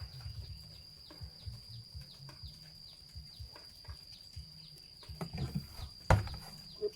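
Outdoor animal chorus: a steady high-pitched insect drone with many short falling chirps about twice a second, over low irregular knocks and thuds; one loud sharp knock about six seconds in.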